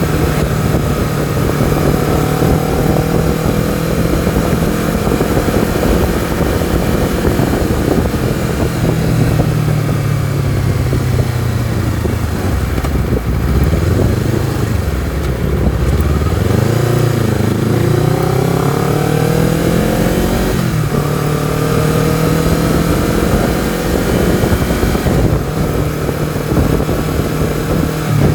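Honda CBR250RR engine and exhaust running under way. The revs hold steady, sink for several seconds about ten seconds in, then climb again with a gear change about twenty seconds in, and settle at a steady pull.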